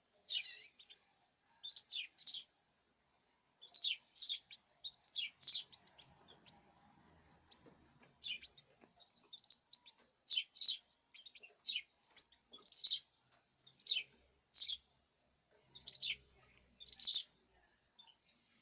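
Canaries chirping: short high chirps, some single and some in quick clusters of two or three, about one to two a second.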